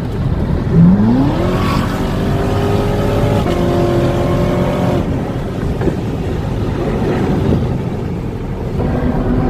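Sports car engine accelerating hard: about a second in it swells loudly, its pitch climbing quickly, then the note holds steady for a few seconds before fading under wind and road noise.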